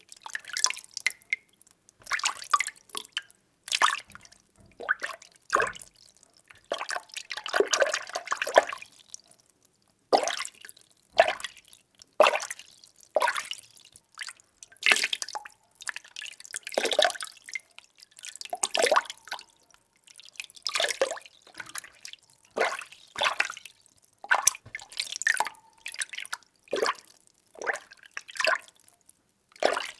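Water being stirred by hand in a container: repeated sloshing swishes about once a second, with a longer, busier stir partway through.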